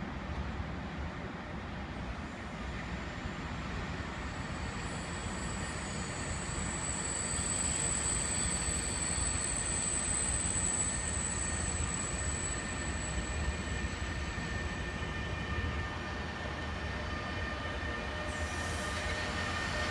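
A train running along the tracks with a steady rumble that slowly grows louder, and a thin high squeal from the wheels on the rails through the middle.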